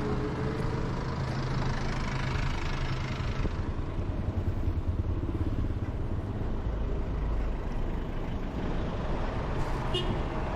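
Street traffic heard from a moving e-bike: steady noise of motor vehicles, with an engine hum that stops about three and a half seconds in and a short high beep near the end.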